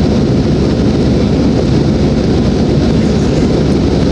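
Steady cabin noise of an airliner in flight: engine and airflow noise heard from inside the cabin as an even, low rumble with a hiss above it.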